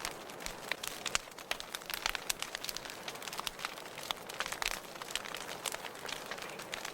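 Fire crackling in a fireplace: irregular sharp pops and snaps, several a second, over a soft steady hiss.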